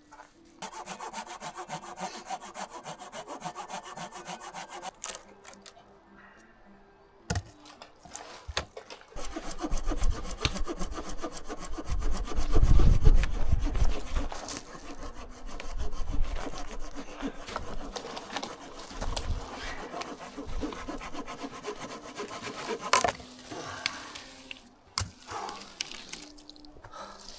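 Hand saw cutting firewood in quick back-and-forth strokes, with a brief pause a few seconds in before the sawing resumes. Heavy low thuds come near the middle.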